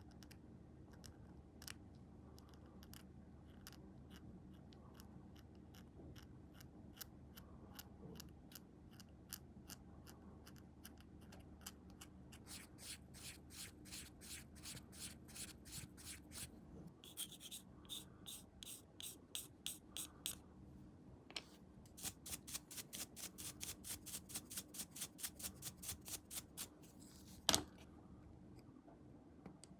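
Quick back-and-forth abrasive strokes on a small plastic model part, sparse at first, then settling into a steady run of about four strokes a second. One sharp tap near the end is the loudest sound.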